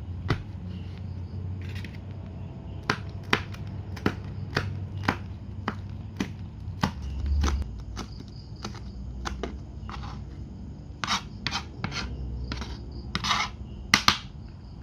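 A string of irregular sharp knocks and clicks, about twenty in all, the loudest near the end, over a low steady hum.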